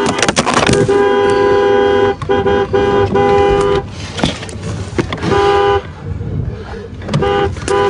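Car horn honking in repeated blasts, with two notes sounding together: several honks run together over the first few seconds, another comes about five seconds in, and two short toots near the end.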